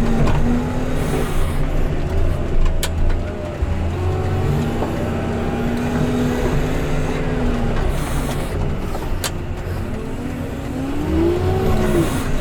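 Engine of a snow-clearing machine running under load, its revs rising and falling, with a couple of sharp knocks.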